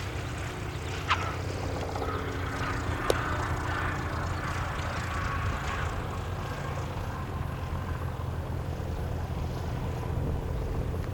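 Steady low drone of a propeller aircraft's engine, with two short sharp clicks about one and three seconds in.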